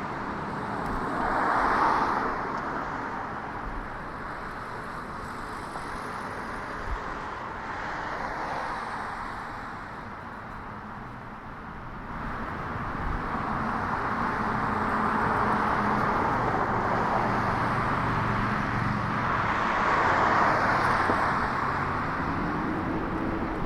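Street traffic: motor vehicles going by with tyre and engine noise, swelling as one passes about two seconds in, and again longer and louder in the second half. A rising engine tone comes near the end.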